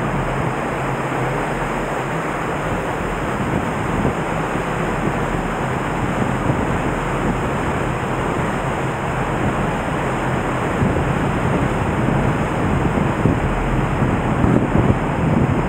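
Floodwater of the swollen Nagara River rushing past: a steady roar of fast-moving water, swollen by typhoon rain. Wind buffets the microphone more strongly near the end.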